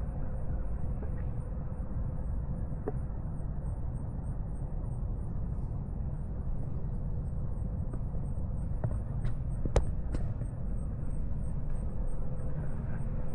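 Steady low outdoor rumble, with a few faint clicks and one sharp click about ten seconds in.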